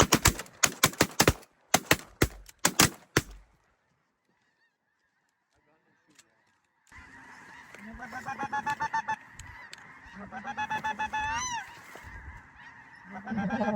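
A rapid volley of a dozen or so shotgun blasts from several shooters over about three seconds. After a silent gap, snow geese call in two long runs of fast, high, repeated honks.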